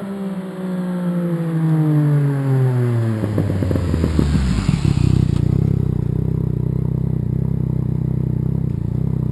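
Yamaha FZ-09 three-cylinder engine through a full Arrow exhaust, its revs falling steadily as the bike slows. It crackles and pops on the overrun about three to five seconds in, popping the owner puts down to the still-fitted air injection system and the high elevation. It then settles into a steady idle.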